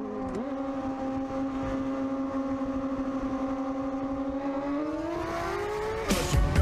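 A car engine at speed holds a steady note, then rises in pitch as it accelerates hard, starting near the five-second mark. Near the end a louder, harsher noise with sharp knocks cuts in.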